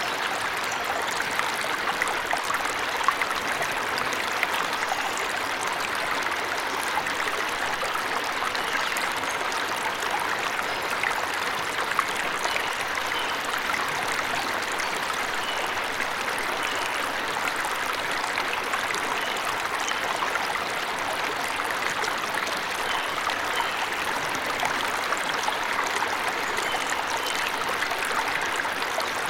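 Waterfall in a forest: a steady rush of falling water, with faint short bird chirps now and then.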